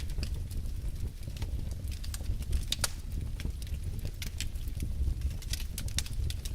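Wood fire burning in a fireplace: a steady low rumble of flame under irregular crackles and pops of burning logs, a few of them sharper.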